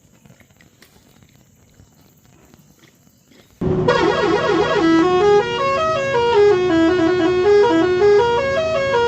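Faint background noise, then about three and a half seconds in a loud, reedy, horn-like tune starts suddenly. It steps up and down in pitch over steady held drone notes.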